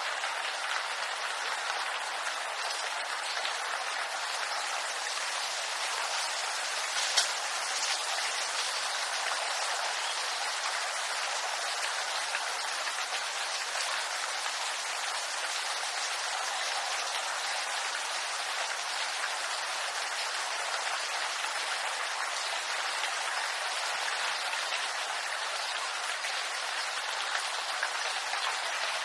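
Steady rain falling through a bamboo grove: an even hiss of many small drops hitting leaves, with one louder drop about seven seconds in.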